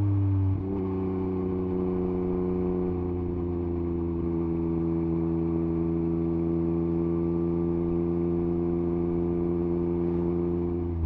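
Yamaha MT-09 SP's CP3 inline three-cylinder engine running through an Akrapovič exhaust with the dB killer removed. The note shifts and the level dips briefly about half a second in, then the engine holds a steady, even note at cruising revs.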